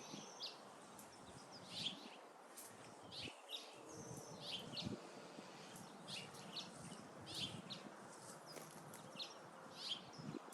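Songbirds chirping outdoors, with short high chirps repeating throughout over a faint background hush.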